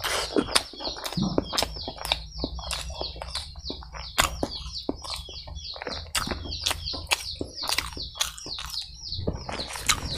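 Close-up wet chewing and lip-smacking of a mouthful of boiled egg and rice, with many sharp, moist mouth clicks. A rapid high chirping runs throughout behind it.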